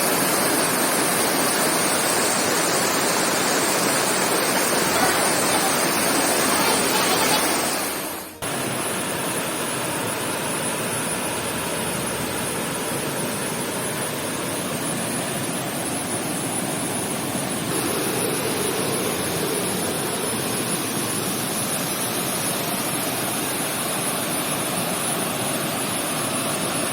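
Small waterfall, a steady rush of falling water, which is running a little low after a few days without rain. The sound drops out abruptly about 8 seconds in, then carries on slightly quieter.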